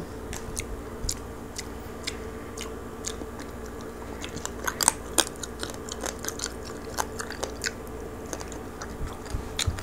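Close-up chewing and biting of crispy roast pig (lechon) skin and meat, with many small irregular crackles. A steady low hum runs underneath.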